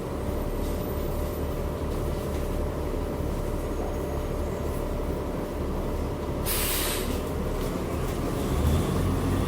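City bus running, heard from inside the cabin: a steady low rumble with a faint held whine, and a short hiss about two-thirds of the way through.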